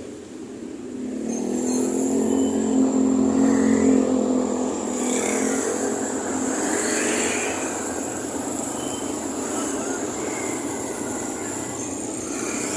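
Miniature radio-controlled truck running. Its motor and gears whine steadily from about a second in, then turn into a rougher, noisier running sound about halfway through.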